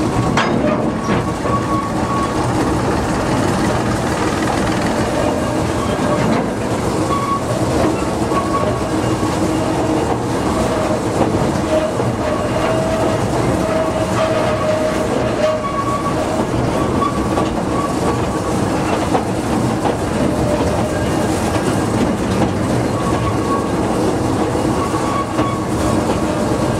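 Narrow-gauge light railway train running steadily, heard from an open carriage: wheels rumbling and clattering over the track, with the Simplex diesel locomotive's engine hauling ahead.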